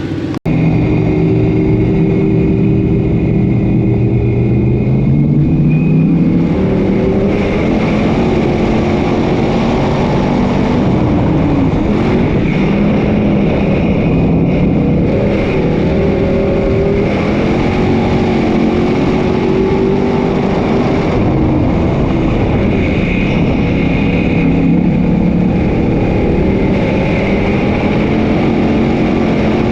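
Several dirt-track sportsman modified race car engines running hard, their pitch rising and falling as the cars accelerate and back off.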